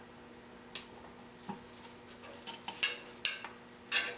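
Scattered light metallic clinks and taps of a screwdriver working a small screw into the oil filter adapter under the engine, the sharpest two a little under and just over three seconds in, over a faint steady hum.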